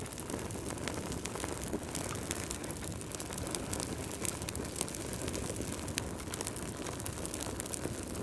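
Wood fire crackling: a steady low rumble of flames with frequent sharp pops and snaps.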